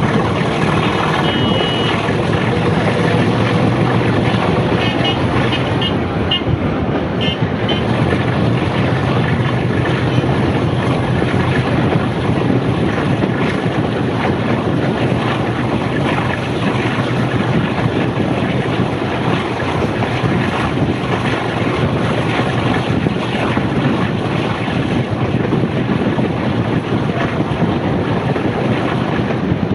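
Steady running noise of a heritage passenger train heard from on board: the carriage rumbling and rattling along the rails at speed, with some wind noise.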